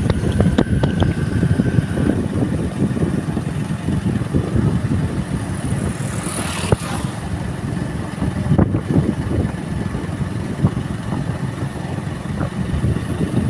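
Motorcycle riding along with its engine running, and wind buffeting the on-board microphone in a steady rumble.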